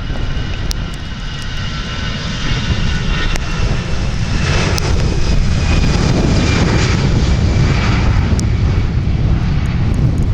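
Airliner engines running, a heavy low rumble that grows louder over the first four or five seconds and then holds steady, with a faint high whine above it.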